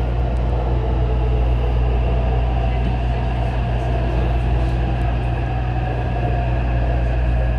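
Taipei Metro train running between stations: a steady rumble of wheels on the rails, with a faint hum over it.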